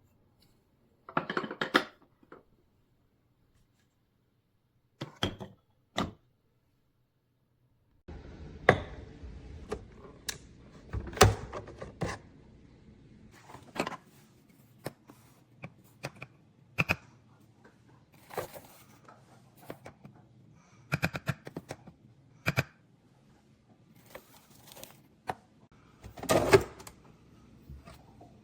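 Scattered clicks, knocks and thunks of objects being handled, with a faint low steady hum starting about eight seconds in.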